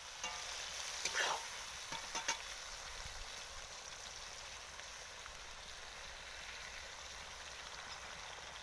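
Flat beans sizzling in hot mustard oil and spices in a wok, a steady frying hiss. A metal spatula knocks and scrapes against the pan two or three times in the first couple of seconds.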